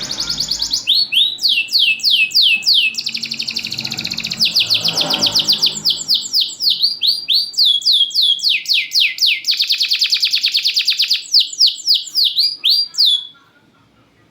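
Domestic canary singing loudly in one long unbroken run of rapid trills and repeated downward-sweeping notes, stopping abruptly near the end.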